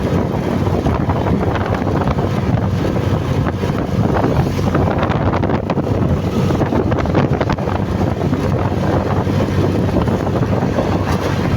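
Steady wind rush over the microphone of a moving motorcycle, with the engine running low underneath.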